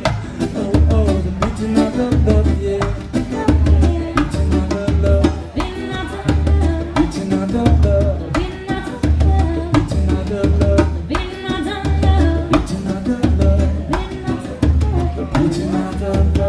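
Reggae band playing an instrumental passage: a pulsing bass line in a steady rhythm under drums and other instruments, with the music dropping away right at the end.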